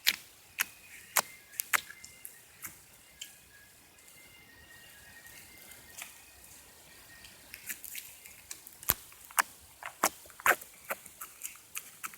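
Slime being squished and worked by hand, giving irregular sharp clicks and pops, with a quieter spell in the middle before the pops pick up again.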